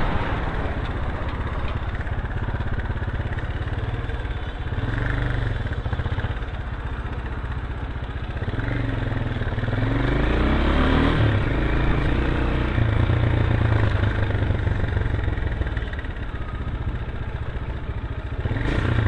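Road and traffic noise: a steady engine and tyre rumble, with an engine's pitch rising and falling for a few seconds around the middle.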